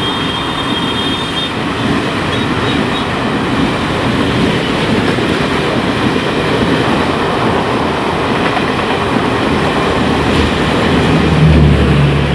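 Passenger train coaches rolling past at speed: a steady rumble and rattle of wheels on the rails, with a thin high whine in the first second or so. Near the end a low steady drone joins in and is the loudest sound.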